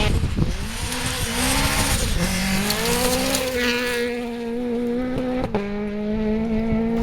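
Rally car engine revving hard, its pitch dropping and climbing through gear changes, then holding steady at high revs. A sharp crack about five and a half seconds in.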